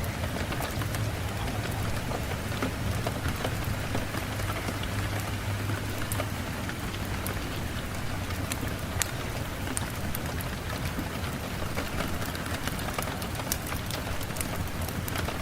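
Steady rain falling, with many sharp individual drops striking a surface over an even hiss and a low steady hum underneath.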